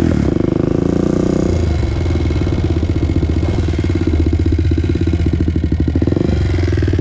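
Honda TRX400EX quad's single-cylinder four-stroke engine running; its revs drop about one and a half seconds in to a steady, pulsing idle, then pick up again near the end.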